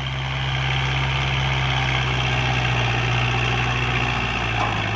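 Kubota farm tractor diesel engine running steadily with an even low hum.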